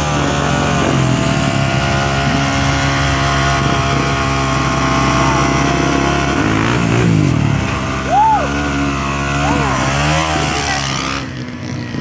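Engines of four-wheelers and dirt bikes running together at a steady pitch, with a few quick revs rising and falling in the second half, then fading about a second before the end.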